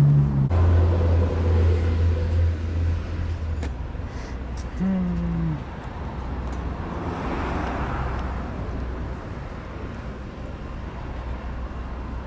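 A motor vehicle's engine running close by with a steady low hum that fades after a few seconds, over outdoor traffic noise; a short falling tone sounds about five seconds in.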